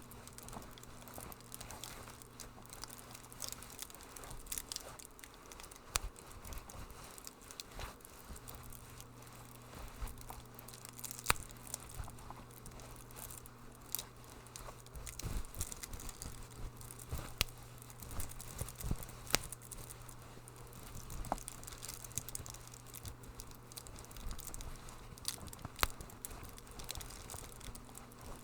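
Wood fire crackling, with irregular sharp pops and snaps scattered over a soft hiss and a low steady hum.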